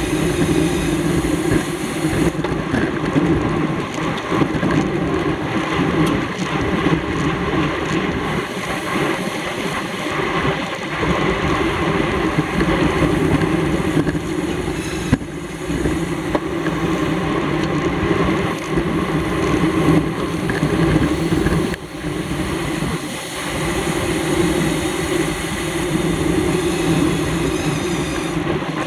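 Steady wind rush and road noise on a camera microphone carried on a bicycle during a road race, loud and unbroken apart from a couple of brief dips.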